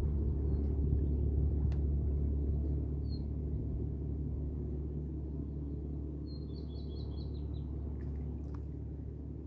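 Steady low drone of a motorboat engine out on the water, slowly easing in level. A bird chirps once about three seconds in and gives a short high trill a few seconds later.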